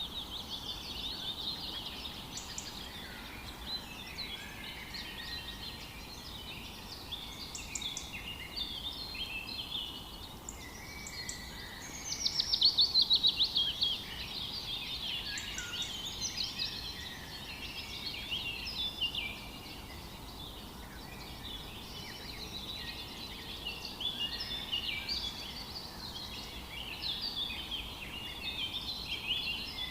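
Several birds calling and singing at once: a dense chorus of overlapping chirps and short trills. About twelve seconds in, one bird gives a louder rapid run of repeated notes lasting about two seconds.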